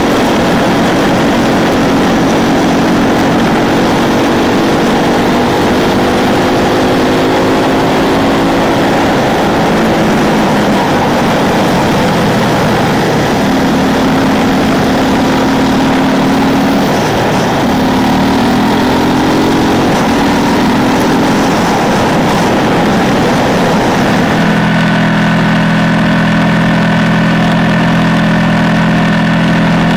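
Ducati 999 L-twin engine heard onboard while riding, its pitch rising and falling with throttle and gear changes, with wind rush over it. About three-quarters of the way through it settles into a steady, even note.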